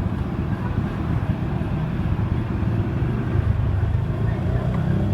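Honda Spacy scooter's single-cylinder engine running steadily at a low idle.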